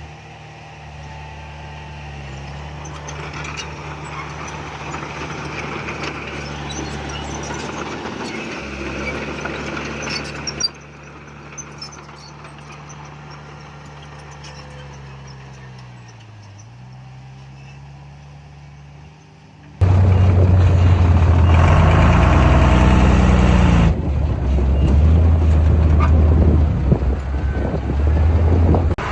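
Heavy diesel earthmoving machinery running, a steady engine drone whose pitch dips briefly twice. About two-thirds of the way in, the sound jumps abruptly to a much louder, closer engine.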